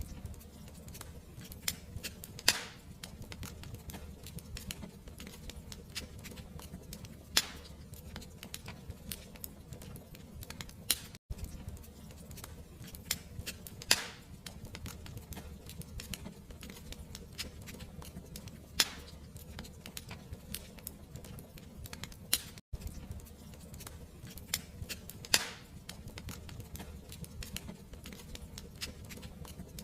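Wood fire crackling: frequent small snaps and a few louder pops over a steady low rumble. The sound drops out for an instant twice, at the seams of a loop.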